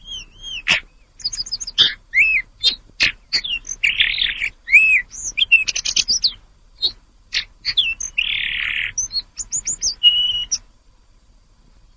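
Tledekan gunung songbird singing a fast, varied song of short whistled notes, sharp clicks and arched chirps, with two harsh raspy notes about four and eight seconds in. It falls silent for about a second near the end.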